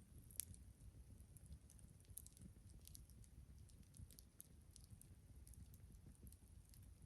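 Campfire burning faintly, its wood crackling in scattered small pops, with one sharper pop about half a second in, over a low rumble.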